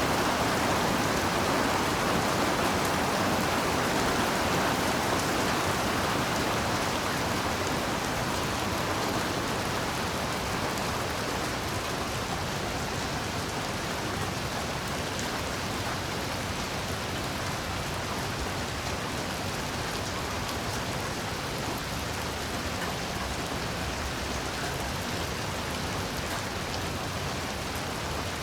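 Heavy rain falling steadily, a dense even hiss of drops, a little louder for the first several seconds before easing slightly.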